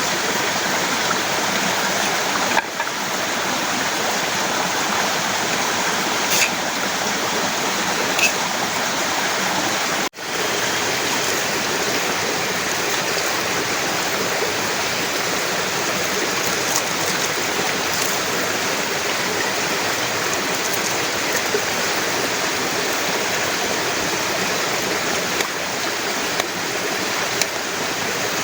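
Heavy rain falling steadily, a dense even hiss, with a few sharp drip-like ticks. The sound cuts out for an instant about ten seconds in.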